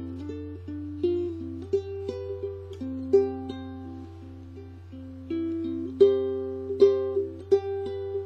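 Ukulele playing the instrumental introduction to a song: picked notes and chords that ring and fade, with a few sharper strums. A steady low hum runs underneath.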